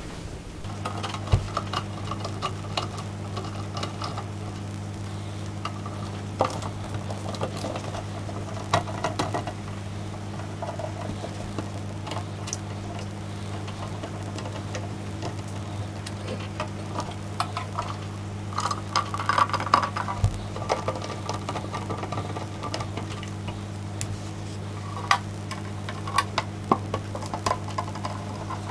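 A Phillips screwdriver turning out the small screws of a metal audio-component case: scattered light clicks and scraping, heavier in a couple of stretches, over a steady low hum.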